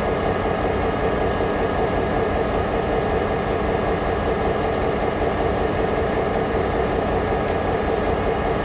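Steady rumble of railway equipment, even in level throughout, with a faint constant hum of tones over it.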